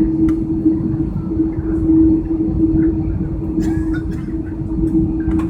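Cabin noise of an Airbus A330-300 airliner taxiing after landing: a steady low rumble with a constant hum, heard from inside the passenger cabin. A few faint clicks come through near the end.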